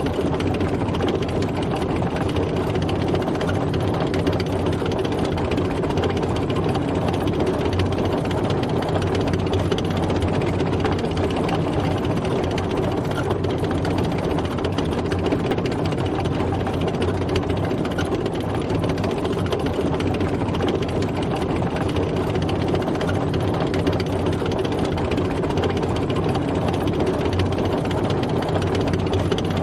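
A tank driving, its engine running steadily at an even level with no changes in pace.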